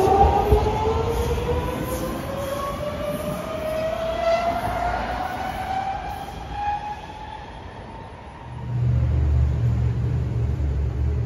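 Electric rapid-transit car of SEPTA's Norristown High Speed Line pulling away, its traction motors giving a whine of several tones that rises steadily in pitch as it accelerates and fades away about seven seconds in. Near the end a loud, low steady hum takes over.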